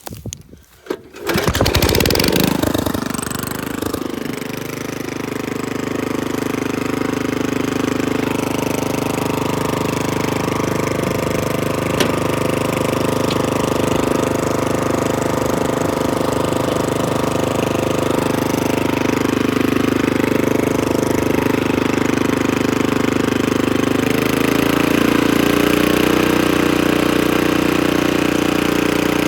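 Troy-Bilt Horse rear-tine rototiller's small engine starting up about a second and a half in, then running steadily and loud. About three-quarters of the way through, its note rises slightly and gets a little louder.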